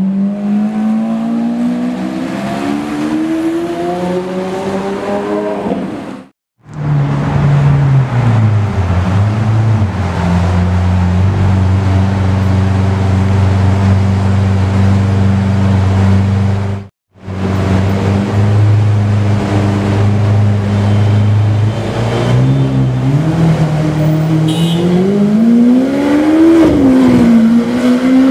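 Novitec-tuned Lamborghini Aventador V12 engines heard in three edited takes. The first accelerates with a rising pitch and stops abruptly at a cut about six seconds in. The second drops in pitch and settles into steady running at low revs. After another cut, the third rises in pitch again as the car accelerates, dipping briefly a couple of seconds before the end.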